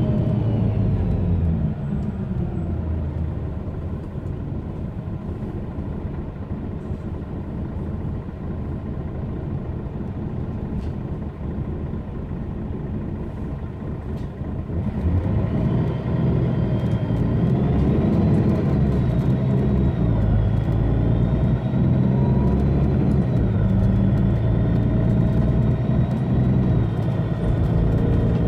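Mercedes-Benz Citaro bus's OM457hLA diesel engine with ZF Ecolife automatic gearbox: the engine note falls away at the start and runs quieter for about thirteen seconds, then about halfway through the engine picks up and pulls hard, and a high turbo whistle rises and falls over it to the end.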